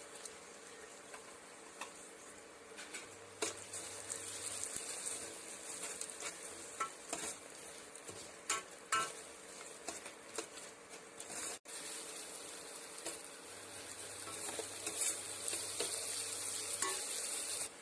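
Sliced shallots sizzling in hot oil in a kadai while being sautéed, with a spatula scraping and tapping against the pan now and then. The sizzle grows louder near the end.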